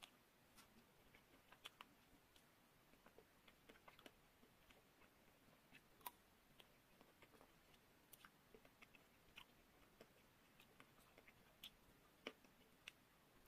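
Faint chewing and biting into a chocolate-coated ice cream bar studded with nut pieces: irregular small crackles and clicks as the hard chocolate shell breaks.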